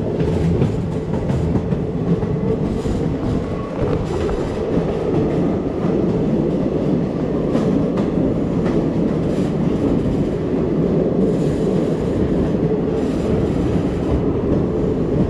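Passenger train running through a rock tunnel: a loud, steady rumble of wheels on the rails, with occasional clicks as the wheels pass rail joints.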